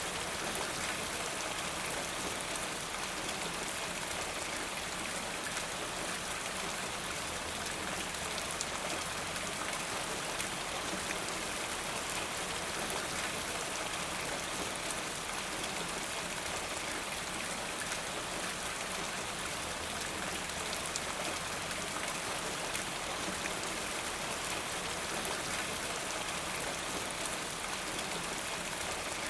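Steady rain falling, with the fine patter of many drops striking a surface.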